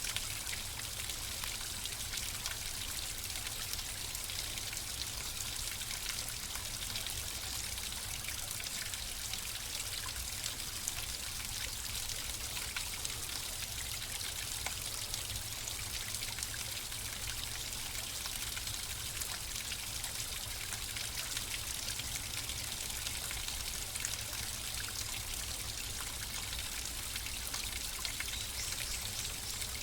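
Flowing water running steadily: an even rush of trickling and splashing over a low rumble.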